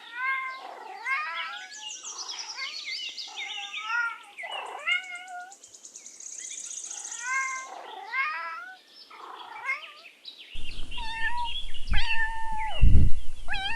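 Domestic cat meowing over and over, a long series of short meows. About ten seconds in, a steady background noise comes in under further meows.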